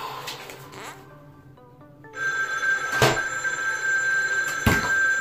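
Soft background music, then a phone starts ringing about two seconds in, a steady high ring that carries on. Two sharp knocks sound about one and two and a half seconds after the ringing starts.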